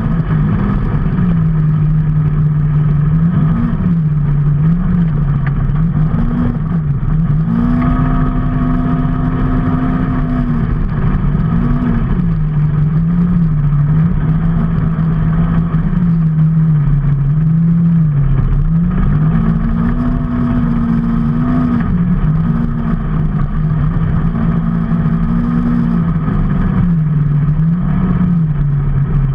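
Vehicle engine running while under way, its pitch rising and falling again and again as the revs change, over a steady rushing noise.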